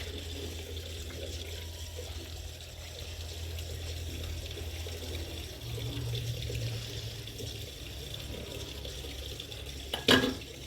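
Water running steadily, like a tap into a sink, over a low steady hum. A sharp knock, the loudest sound, comes near the end.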